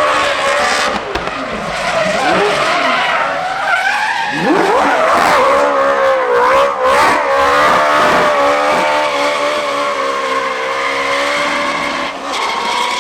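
Competition car's engine revving hard, with tyres squealing as it skids. About four seconds in the engine note drops and then climbs sharply, then holds at high revs with a wavering pitch.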